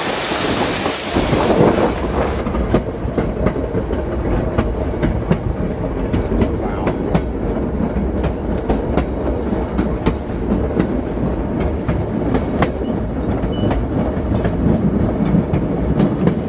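White Pass & Yukon Route narrow-gauge train running: a steady rumble of wheels on rail with frequent sharp clicks as the wheels cross the rail joints. A rushing hiss, from the waterfall beside the track, fills the first two seconds or so and then stops abruptly.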